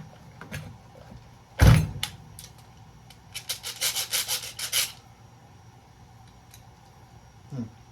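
A hard knock, then a quick run of about eight to ten scraping strokes and a few light clicks, as old circuit breakers are handled and worked apart.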